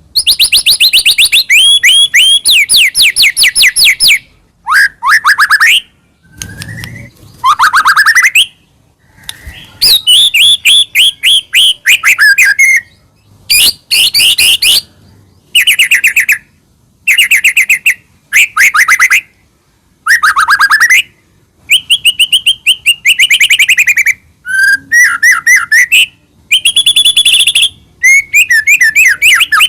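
White-rumped shama (murai batu) singing loudly and continuously, in phrases of fast, repeated, trilled notes separated by short pauses: the vigorous 'gacor' song of a shama in full voice.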